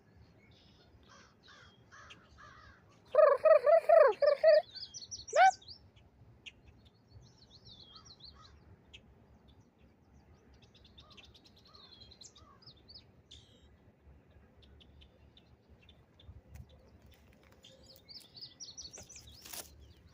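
Wild birds calling: scattered high, thin chirps throughout, with a loud burst of about five harsh repeated calls about three seconds in.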